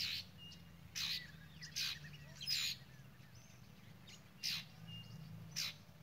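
Birds chirping: about six short, sharp, high calls at irregular intervals, some with a quick downward slide.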